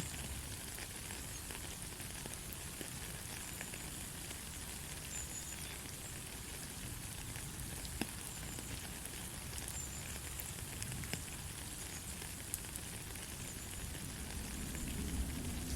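Steady light rain, an even hiss with scattered sharp ticks of single drops. A low rumble swells near the end.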